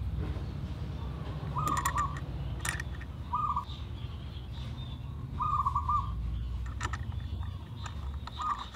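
A bird calling four times, each a short warbled note at the same pitch. A few light metal clicks come in between as a washer and nut are fitted onto the scooter's clutch shaft.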